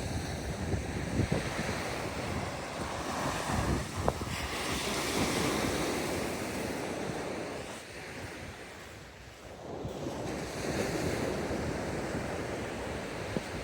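Sea waves washing onto the beach, swelling and fading with a lull about eight seconds in, with wind buffeting the microphone.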